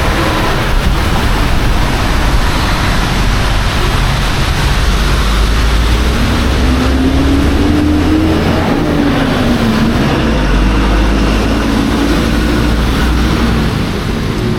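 Heavy rain falling steadily, with a motor vehicle's engine running close by. Its pitch rises and falls about halfway through as it passes.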